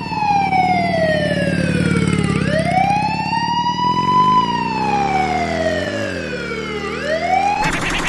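A siren wailing, sliding slowly down and back up in pitch twice, over a low engine drone. It breaks off just before the end into a dense rattling sound.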